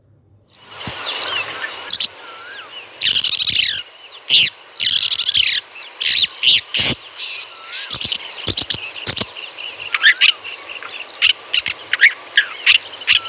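Long-tailed shrike calling: a run of short, harsh, scratchy notes mixed with brief whistled glides, repeated irregularly. A steady high-pitched drone runs behind them.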